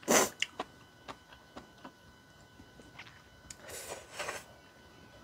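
Close-miked eating sounds: mouth sounds and small wet chewing clicks. There is a short loud rush of noise at the start and a longer airy hiss about four seconds in.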